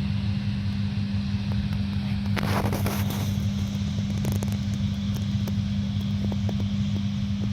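Farm vehicle engine running steadily with a constant low hum. A short rushing noise cuts in about two and a half seconds in, followed by a few light clicks.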